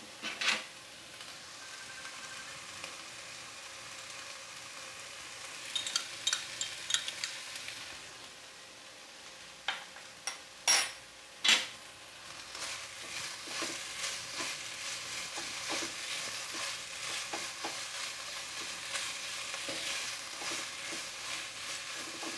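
Onion, garlic, ginger and turmeric sautéing in oil in a nonstick wok, with a steady sizzle. There are a few sharp knocks about ten to eleven seconds in. From about twelve seconds on, a spatula scrapes and stirs through the frying mixture without a break.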